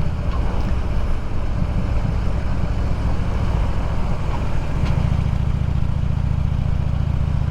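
Motorcycle engine running steadily under way, a deep low rumble with wind and road noise over it; the engine note shifts slightly about two-thirds of the way through.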